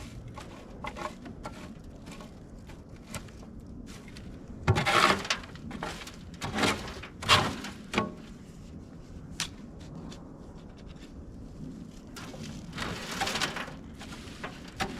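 Compost of leaves, twigs and pine needles being shaken and rubbed through a wooden-framed half-inch hardware-cloth sifting screen: irregular scratchy rustling with light clicks, in a cluster of bursts between about five and eight seconds in and another near thirteen seconds.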